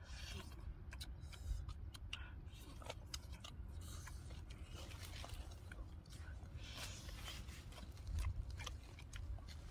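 Close-up eating sounds: people chewing and biting roasted duck meat, with scattered small wet clicks and smacks over a low steady rumble.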